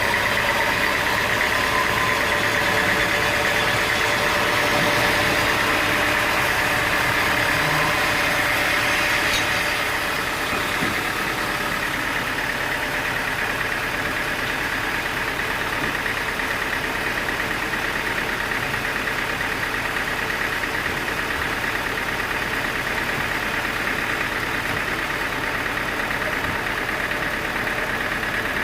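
Sawmill machinery running steadily: a continuous engine drone with a high, steady whine over it, easing slightly in loudness about ten seconds in.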